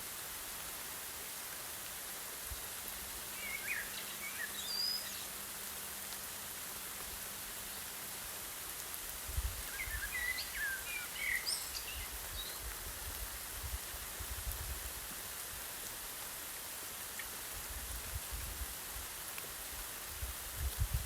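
Steady hiss of light rain, with distant birds chirping in two short spells, about four seconds in and again around ten to twelve seconds in. Irregular low gusts of breeze rumble underneath, mostly in the second half.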